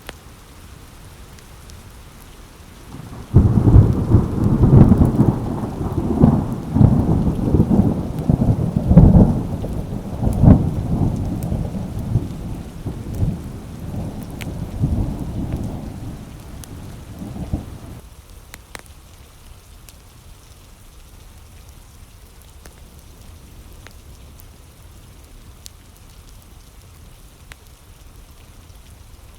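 Steady rain with a long clap of thunder that breaks suddenly about three seconds in, rolls in repeated low rumbles and fades away after about fifteen seconds.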